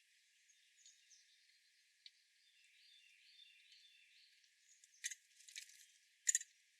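Faint chirping of small wild birds, with two short, sharp rasping bursts near the end.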